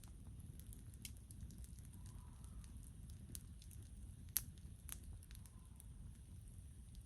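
Wood campfire burning with a low steady rumble and a few sparse sharp crackles and pops, the loudest pop about four and a half seconds in.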